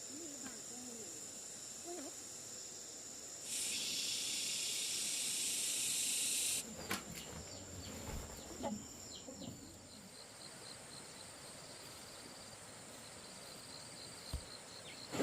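Insects trilling steadily at a high pitch. About three seconds in, a loud hiss starts suddenly, lasts about three seconds and cuts off. Later a faint rapid chirping pulses along, with a few soft low calls.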